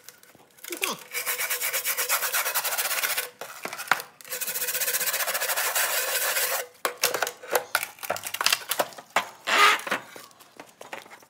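Rapid rubbing or scrubbing on the vintage Mopar truck heater unit, in two long stretches of fast strokes, followed by scattered clicks and short scrapes.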